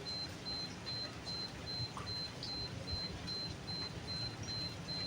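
Steady rain falling at night. Over it, a high-pitched chirp repeats evenly about two to three times a second, with a few faint drip-like ticks.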